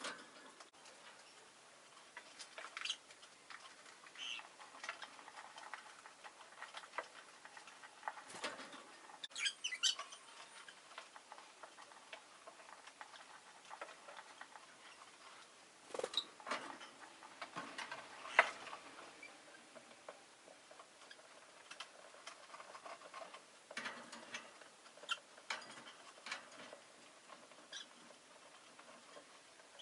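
Rosy-faced lovebird giving occasional short, quiet chirps amid soft scattered clicks and pattering, a few of the sounds louder than the rest.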